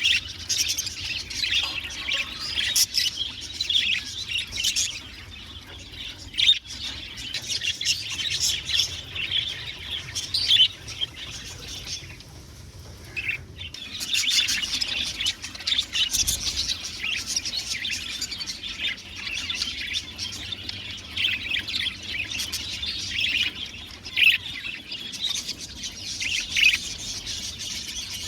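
Several budgerigars chirping and chattering continuously, with a short lull about twelve seconds in.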